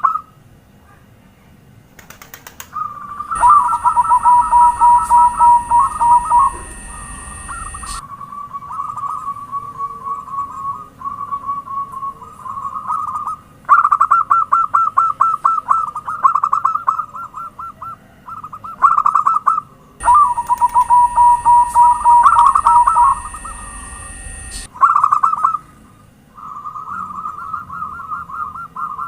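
Zebra doves (perkutut) calling: bouts of rapid, staccato trilled cooing notes, several birds overlapping. Two louder stretches come a few seconds in and again about two-thirds of the way through. It is a perkutut lure recording used to set other doves calling.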